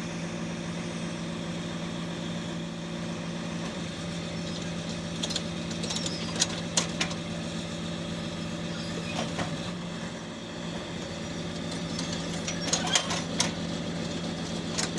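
Tractor diesel engine idling steadily, with scattered sharp clicks and knocks in the middle and near the end as the drill's hydraulic shanks are being lowered.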